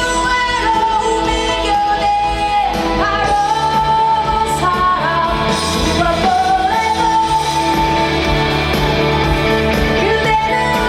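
A female pop singer sings live with a full band behind her, holding long sustained notes over a steady accompaniment.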